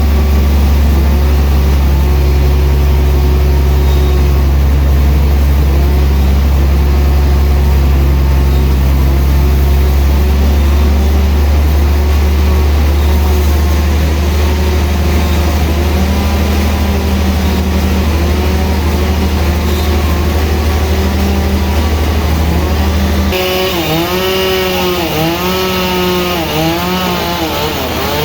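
Sawmill saw cutting through a large trembesi log, its motor running under load with the pitch dipping again and again as the blade bites. About 23 seconds in, a deep steady hum drops out and a hiss of sawing comes in.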